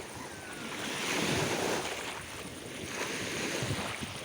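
Sea waves washing in on the shore, the surf swelling twice, with some wind on the microphone.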